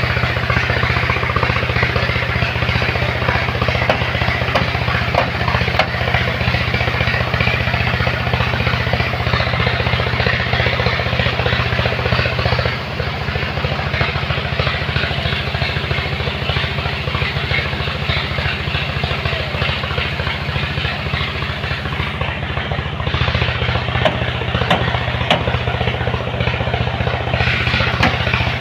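A truck engine running with a steady, rapid low throb. It drops in level and pitch about 13 seconds in and picks up again about 23 seconds in.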